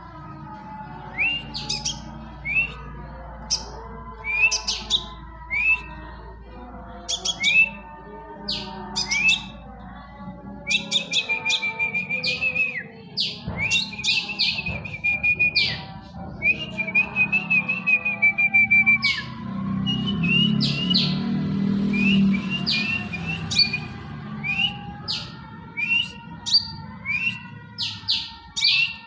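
Scarlet minivet calling: a long series of short, sharp rising chirps, broken by several runs of rapid trilling between about 11 and 19 seconds in. Steady music-like tones run underneath.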